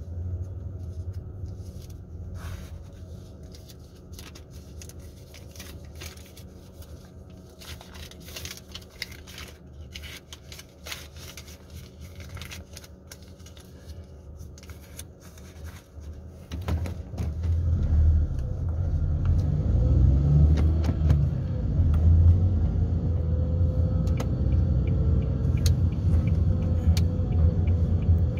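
Car engine and road rumble heard from inside the cabin: a low idle while stopped in traffic, with a few scattered clicks. From about two-thirds of the way in it grows much louder, the engine note rising as the car pulls away and drives on.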